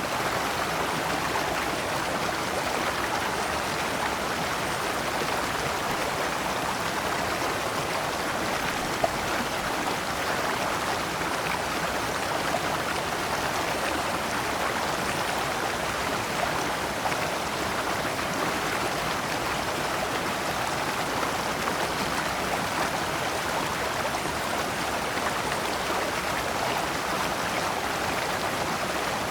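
Shallow rocky stream flowing steadily over stones in small cascades: a continuous, even babble of running water.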